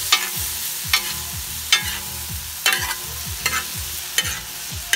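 Pelmeni frying and sizzling in a large black pan, while a metal spoon stirs them and scrapes across the pan about once a second.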